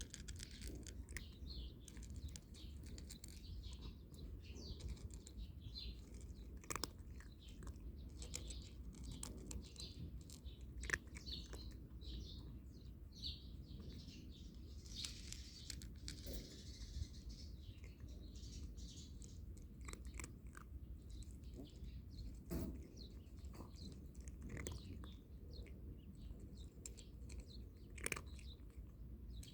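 A cat crunching dry kibble, with scattered crisp bites, while small birds chirp in the background.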